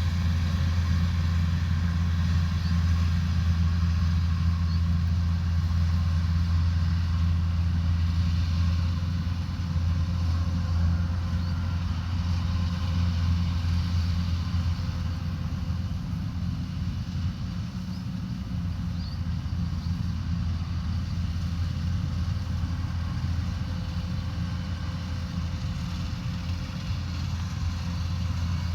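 Combine harvester's diesel engine running steadily under a low, even hum, easing off somewhat partway through and growing louder again near the end.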